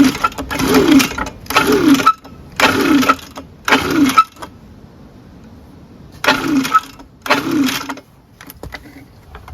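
Recoil starter of an Echo ES-250 two-stroke blower being pulled seven times, five quick pulls, a pause, then two more, each a short whirring rasp that drops in pitch as the engine spins over without catching. It turns over very easily: there is no compression.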